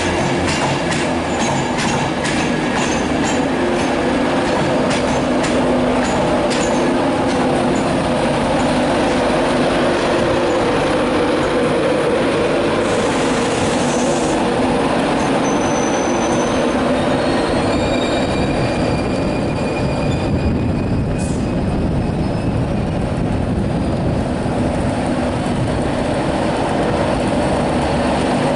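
Train running on track, with a steady rumble throughout. Wheels click over rail joints in the first several seconds, and thin high-pitched wheel squeals come and go around the middle.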